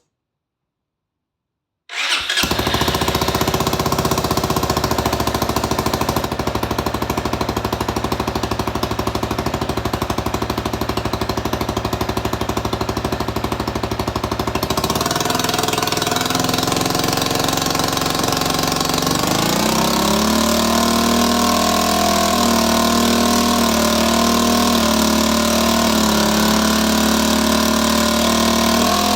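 Honda Forza Z MF08 scooter's 250 cc single-cylinder engine starting about two seconds in and then idling steadily. Its pitch steps up and holds higher about two-thirds of the way through.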